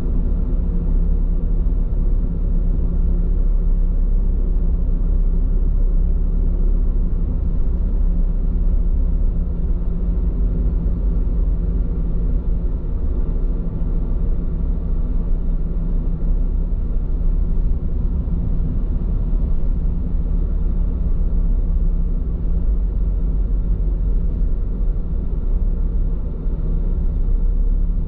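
Steady low road rumble from a car's Bridgestone Regno tyres rolling on the road, heard inside the cabin while driving, with faint steady tones from the running car under it.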